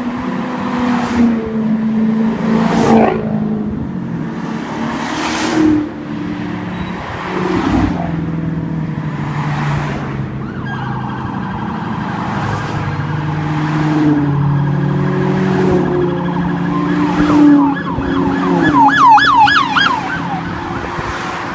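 Street traffic with car engines running, revving and passing in several loud swells. About halfway through an emergency-vehicle siren starts as a steady high tone, then warbles rapidly in a fast yelp near the end.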